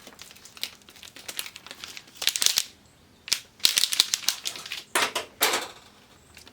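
Plastic packaging around a replacement LED backlight strip being handled and opened: irregular crinkling and rustling with sharp plastic clicks, in several short bursts.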